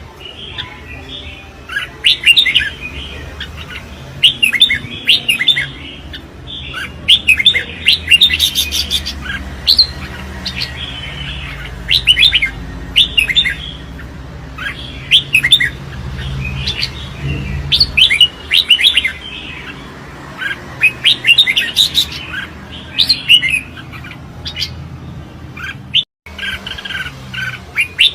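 Red-whiskered bulbul singing its competition song: short bursts of quick, bright chirping phrases, repeated every second or two. The sound cuts out briefly near the end.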